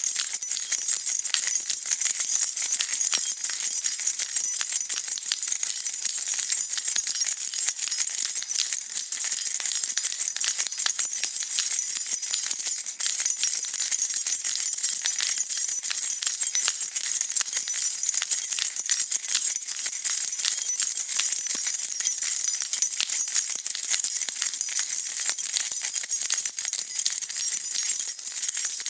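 A bunch of metal keys being shaken and jingling continuously, a dense, unbroken clatter of small clinks.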